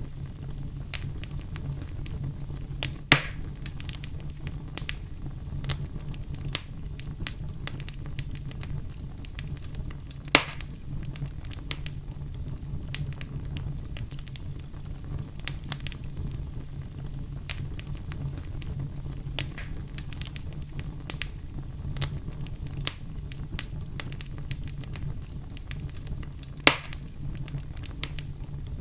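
Fireplace fire crackling with many small snaps over a steady low rumble, and three sharper, louder pops spread through.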